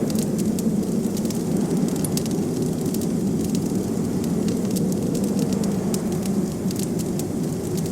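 Wood fire crackling with frequent small, sharp pops, over a steady low rumble of blizzard wind.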